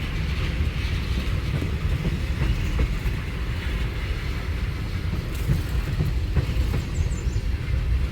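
Freight train rolling past, a steady low rumble from its cars on the rails with occasional faint clicks.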